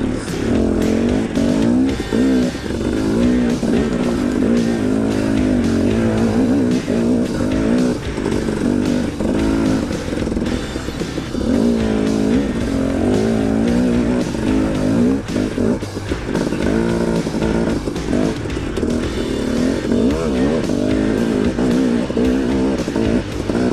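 KTM 250 XC-W two-stroke dirt bike engine revving up and down repeatedly as it picks its way over rough trail, with scattered short knocks.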